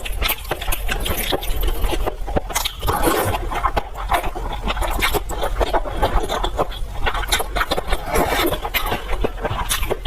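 Close-miked eating sounds: a dense, continuous run of quick chewing clicks and mouth smacks over a low steady hum.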